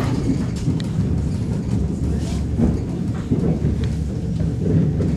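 Steady low rumble of an ER2T electric commuter train in motion, heard from inside the carriage: wheels running on the rails, with a few faint clicks and rattles.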